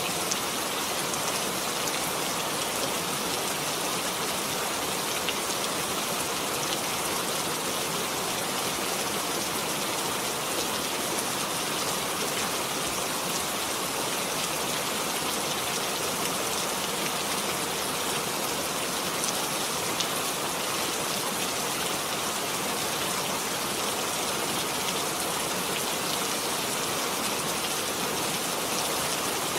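Steady rain falling, an even hiss of drops pattering on a surface with no change in strength.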